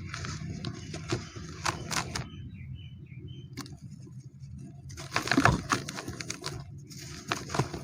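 Dry cement crumbling, with irregular crunches and crackles of breaking, gritty chunks. The sound is sparser for a couple of seconds in the middle, then a louder crunch comes past the midpoint and another near the end.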